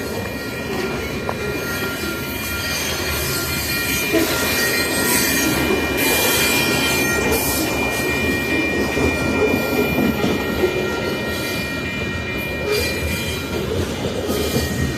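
Freight train cars rolling past with a steady rumble and rattle, over which the wheels hold several thin, high squealing tones throughout.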